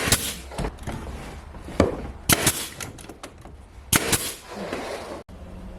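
A string of sharp knocks at uneven spacing, several of them in quick pairs, as a small patch piece is worked into the wall.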